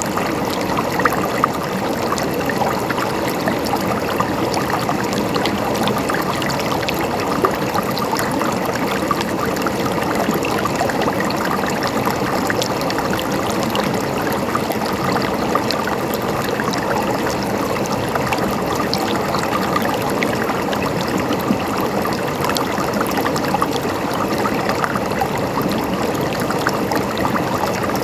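Mountain stream flowing and gurgling steadily, with many small splashes and drips throughout.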